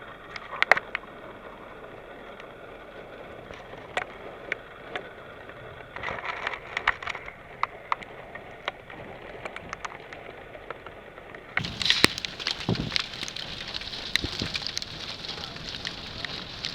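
Steady rain-and-wind hiss with scattered sharp ticks, like raindrops striking a vehicle. About twelve seconds in it turns suddenly louder and brighter.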